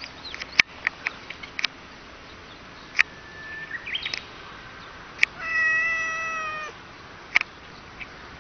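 A domestic cat gives one drawn-out meow a little past the middle, about a second long and holding a steady pitch. A few sharp clicks and brief high chirps come and go around it.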